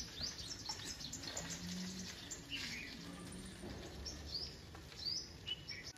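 Small birds chirping: a quick run of short high notes that thins out after about a second into scattered calls.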